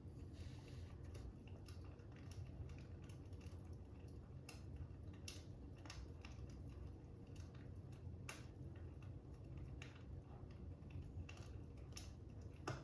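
Fire crackling, with sharp pops at irregular times over a steady low rumble, along with light tapping like a stylus writing on a tablet.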